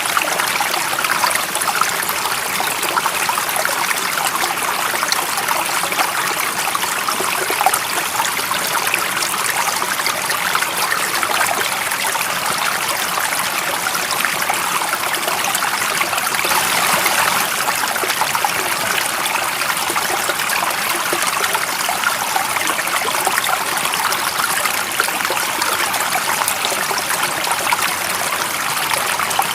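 Running water of a stream, flowing steadily as a dense, even splashing and trickling with no pauses.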